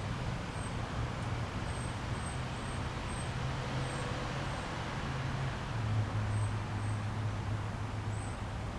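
A steady engine hum, its pitch dropping slightly and getting a little louder about six seconds in, with faint short high chirps repeating over it.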